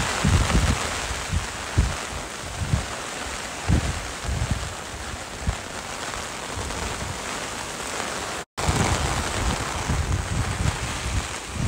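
Heavy rain falling onto an umbrella canopy overhead, a steady hiss, with irregular gusts of wind buffeting the microphone. The sound cuts out for an instant about two-thirds of the way through.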